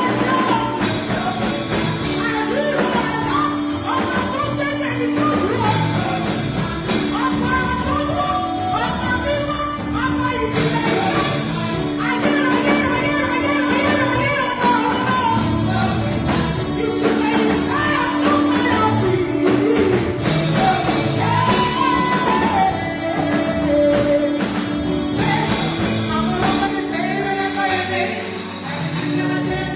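Church worship music: singing over a band accompaniment, at a steady, full level.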